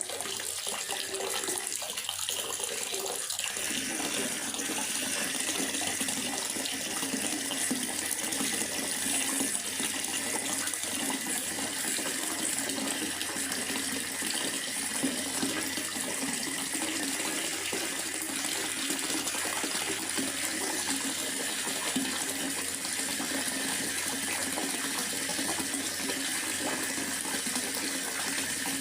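Steady rain falling in a forest: an even, unbroken rush of water.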